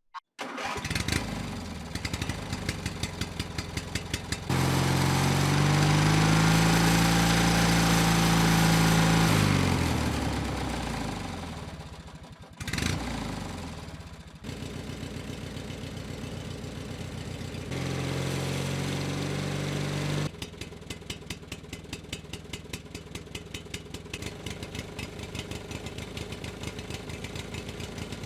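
Small engine of a homemade mini tractor starting and running with rapid firing pulses. It runs louder and faster for several seconds, slows down almost to a stall, picks up again and settles into steady running.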